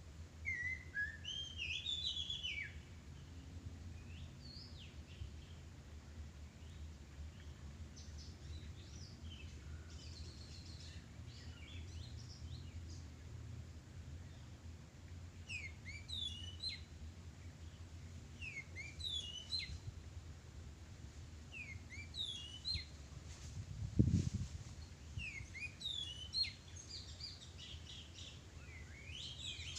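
Small birds chirping and calling in short, quick sliding notes, repeated in clusters, over a steady low background rumble. One dull thump sounds late on.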